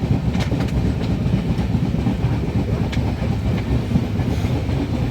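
Passenger train running along the track: a steady low rumble, with a few faint clicks of the wheels over rail joints.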